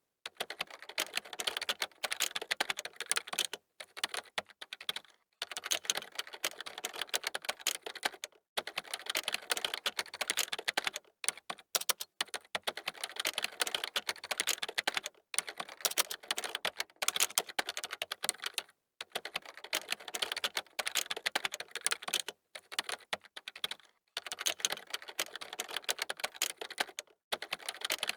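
Computer keyboard typing: fast runs of key clicks, broken by short pauses every few seconds.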